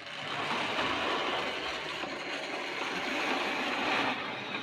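Tri-ang Princess Elizabeth model locomotive running at a steady, unhurried speed on OO-gauge track with its two coaches: a continuous whirring and rattling of the electric motor and wheels on the rails.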